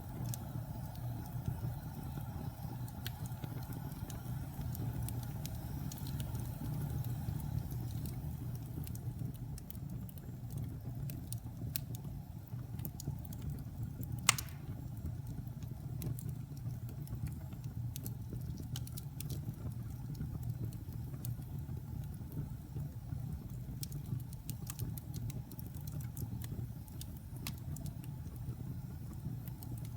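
Wood fire burning in a fireplace: a steady low rumble of flame with scattered crackles and pops, and one sharp, loud pop about halfway through.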